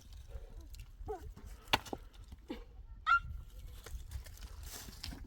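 Livestock making a few short calls, among several sharp clicks or knocks.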